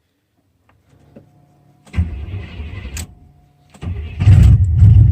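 Cold start of a 1991 GMC K1500's V8: the starter cranks the engine in two goes with a brief pause between, and about four seconds in it catches and settles into a loud, steady idle.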